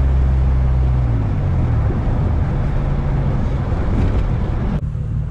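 Single-turbo Nissan G35's VQ35 V6 running while the car is driven, with road and wind noise over a steady low engine hum. The engine note shifts after about a second, and near the end the rushing noise cuts off suddenly, leaving the engine hum.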